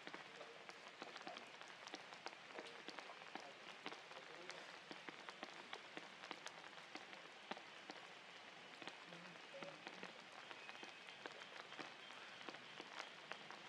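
Faint, steady rain falling, with many separate drops ticking sharply on nearby surfaces.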